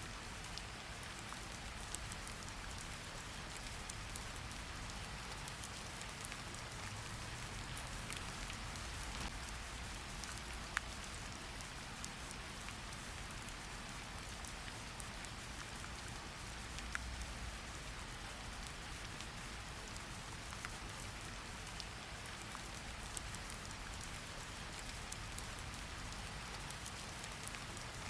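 Steady rain falling, with scattered sharp ticks of single drops and one louder tick about eleven seconds in.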